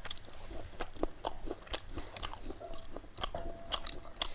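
Close-miked chewing of a mouthful of food, with irregular sharp wet clicks and crunches.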